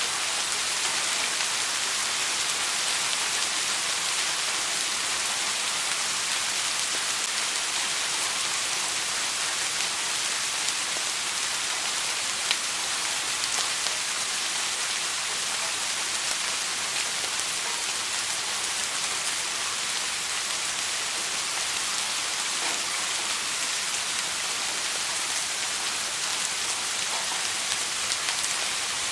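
Steady rain, an even hiss of falling drops with faint scattered patter.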